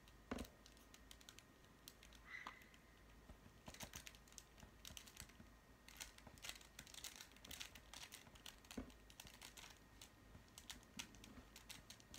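Faint plastic clicking of a Rubik's cube being twisted by hand, in quick flurries of turns with short pauses between.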